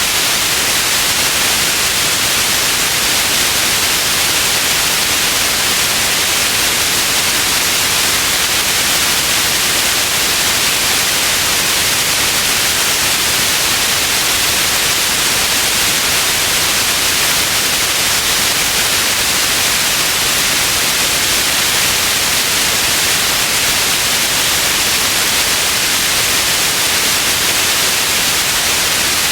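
Steady white noise: an even, unchanging hiss, strongest in the upper range, with no other events.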